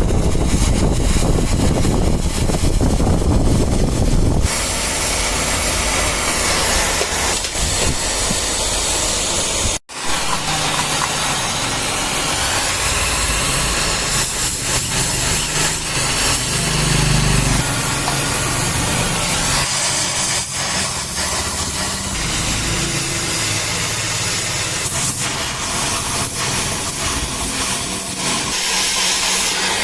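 Metalworking machinery in a small workshop running continuously, a loud mechanical noise with hissing, with a sudden brief break about ten seconds in.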